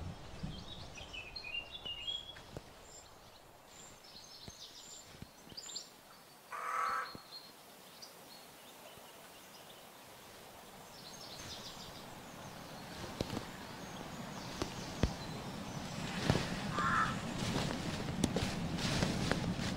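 Birds calling: one loud call about seven seconds in and a shorter one near the end, with faint higher chirping in between.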